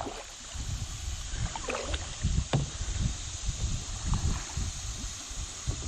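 Steady rush of river water as a kayak nears small rapids, with wind buffeting the microphone in low, uneven gusts and a few faint knocks.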